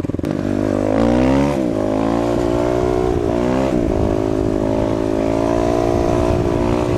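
Four-stroke single-cylinder dirt bike engine pulling away and accelerating. The engine note rises, drops at a gear change about one and a half seconds in, rises again, shifts again about three and a half seconds in, then runs at a steady cruise.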